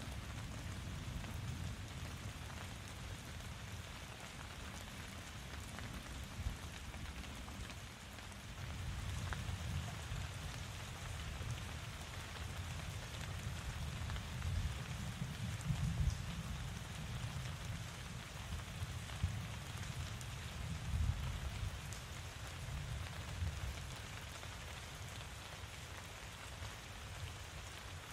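Steady rain falling: an even hiss with a few sharper drop ticks, over a low rumble that swells in the middle and eases off near the end.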